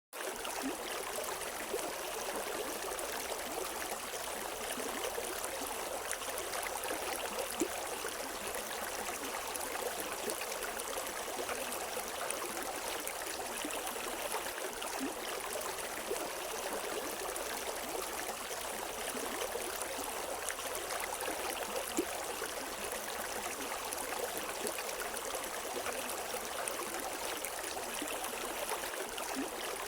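A river's flowing water, a steady rush with small splashes and gurgles, with no birdsong.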